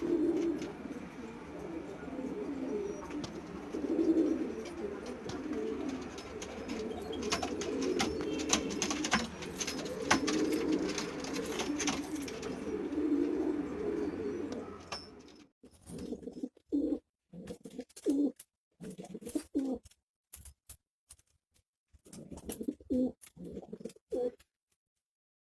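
Domestic pigeons cooing, several low coos overlapping, with scattered sharp clicks in the middle. After about fifteen seconds the background drops away and the coos come singly, with silences between them.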